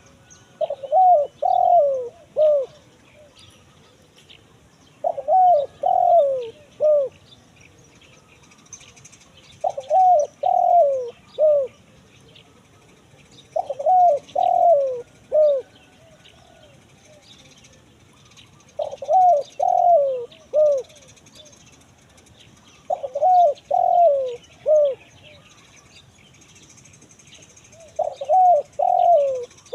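Spotted dove (tekukur) cooing in the crisp 'kuk 1 mersik' song style: seven phrases of three or four falling coo notes, one phrase every four to five seconds.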